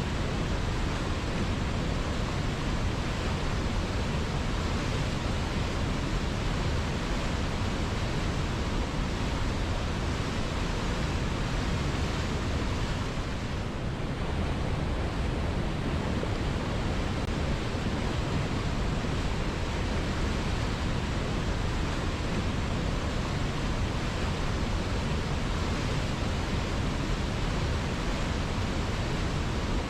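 River water flowing in a steady, even rush, with a slight dip in level about halfway through.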